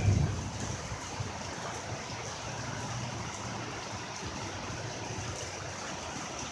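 Heavy rain falling steadily, an even hiss of water, with a brief low thump at the very start.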